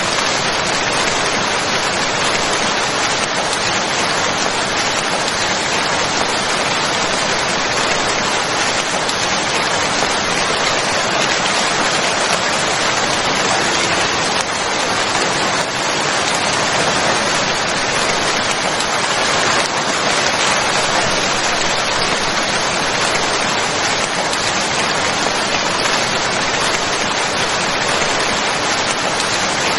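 Steady rain falling: an even, unbroken hiss of drops that does not change.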